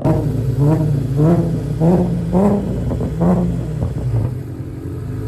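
Car engine revved in a quick string of throttle blips, its pitch rising and dropping back over and over, then settling to a steadier drone near the end.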